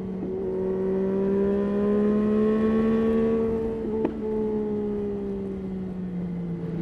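Yamaha Tracer 9's 890 cc three-cylinder engine running at steady road speed, its pitch rising slightly and then easing off. There is a single sharp click about four seconds in.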